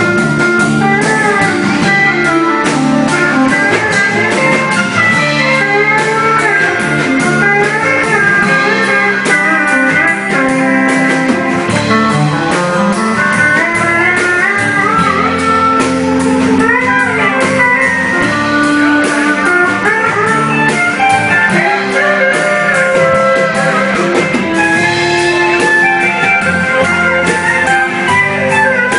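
Live country band playing an instrumental break, a guitar taking a bluesy lead over the band's steady rhythm.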